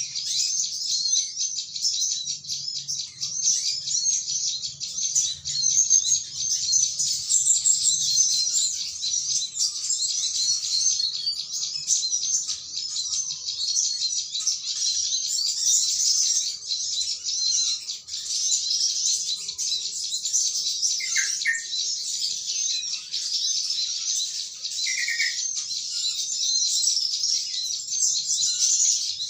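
Dense, unbroken high-pitched chirping of a flock of small birds, many calling over one another. Two brief lower calls stand out about two-thirds and five-sixths of the way through.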